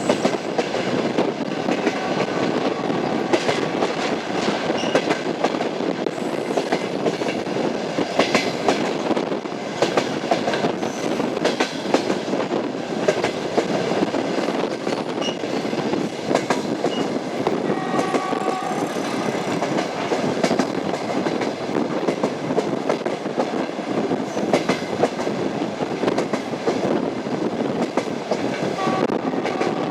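Passenger train wheels clattering over the rail joints of jointed track at speed, an unbroken clickety-clack over a steady rolling rumble.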